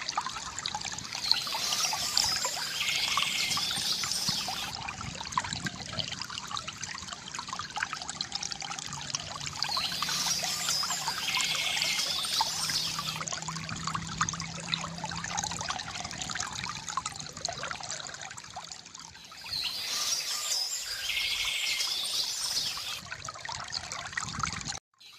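A small stream trickling and splashing steadily, with a songbird singing short bursts of song three times. The sound cuts out for an instant near the end.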